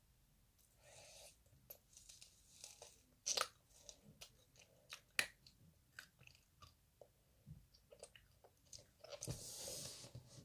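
Close-up chewing and crunching of Jeju tangerine tanghulu, its hard sugar shell cracking between the teeth in scattered faint crunches, with two sharper crunches about three and five seconds in.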